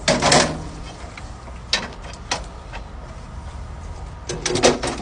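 A few sharp knocks and clatters over a low steady rumble: one loud knock at the start, two single ones in the middle, and a quick run of them near the end.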